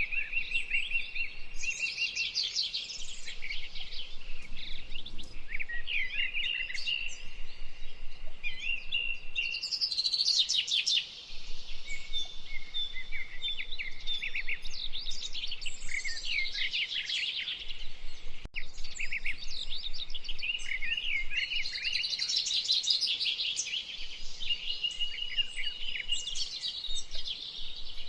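Several wild birds singing at once, a dense mix of overlapping chirps, rapid trills and short held whistled notes.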